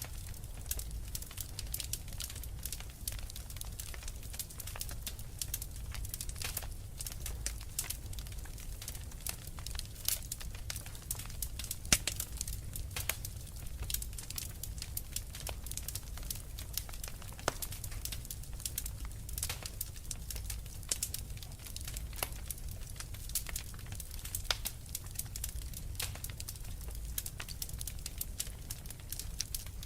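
Wood fire in a fireplace crackling, with dense irregular pops and snaps over a steady low rumble of the flames, and one louder pop about twelve seconds in.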